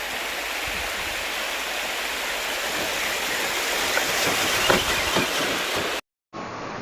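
Steady rush of flowing stream water, with a few faint knocks about four to five seconds in. It breaks off suddenly near the end, and after a brief gap a duller background sound takes over.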